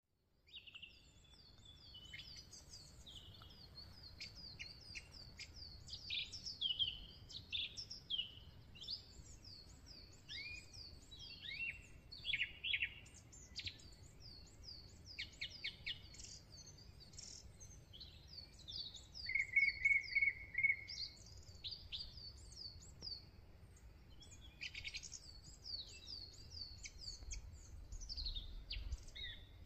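Several small birds singing and calling in a dense chorus of short chirps and whistled notes, with a louder, evenly pulsed trill about two-thirds through. A low steady rumble lies underneath, stronger near the end.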